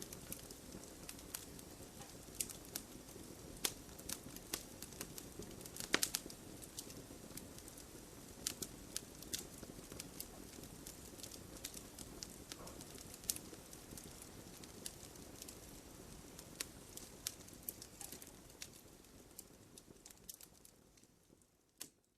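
Wood fire burning in a fireplace: frequent irregular sharp crackles and pops from the burning logs over a low steady rush of flames. It fades out to silence near the end.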